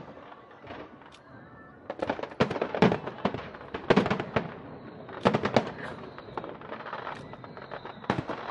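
Aerial fireworks shells bursting: a run of sharp bangs with a quieter stretch early on, the bangs bunched between about two and six seconds in and one more near the end.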